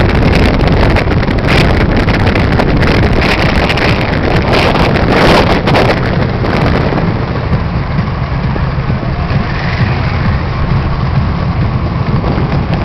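Motor vehicle running, with wind buffeting the microphone; the wind noise is heaviest in the first half and eases about seven seconds in, leaving a steady low rumble.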